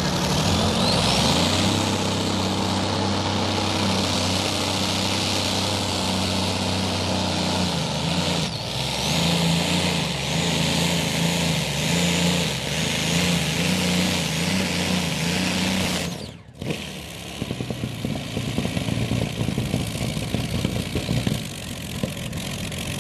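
Light modified pulling tractor's engine running hard and steady under load during a pull, its pitch stepping down and up a few times. About two thirds of the way in the sound breaks off abruptly and a rougher engine sound takes over.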